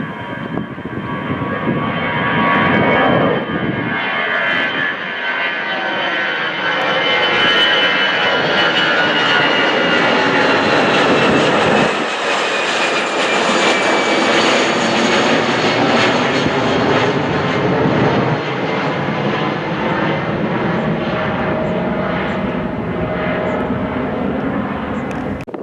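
Jet airliner's engines passing close by: a loud, steady rush with whining tones that slide slowly down in pitch. It swells over the first few seconds and eases slightly in the second half.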